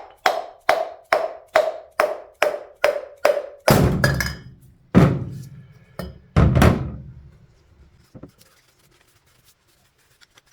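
Light hammer taps driving a seized wrist pin out of a VW piston, about two and a half taps a second, each with a short ring. A few seconds in, they give way to three heavier, deeper thumps, and then the tapping stops.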